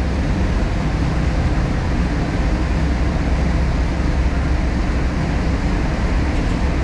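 Steady low rumble of street traffic noise, even and unchanging.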